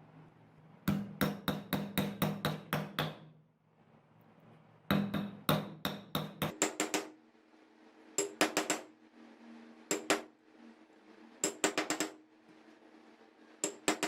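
Hammer tapping in quick bursts of several strokes, about four a second, with short pauses between the bursts.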